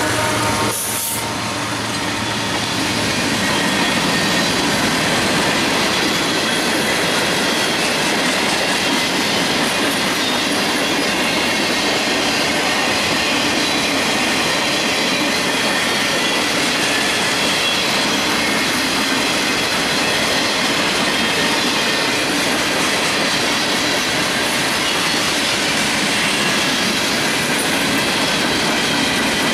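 Freight train cars (covered hoppers, boxcars and tank cars) rolling past close by: a steady loud rumble and clatter of steel wheels on the rails, with a faint high wheel squeal running through it. About a second in, the lead locomotive's engine drops away.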